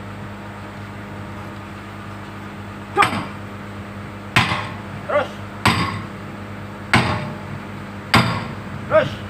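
Hammer blows on a steel bucket pin, driving it through the bushings of a Komatsu PC200-7 excavator's bucket. The first blow lands about three seconds in, then one about every 1.2 seconds, five in all, each ringing briefly. A steady hum from the idling excavator runs underneath.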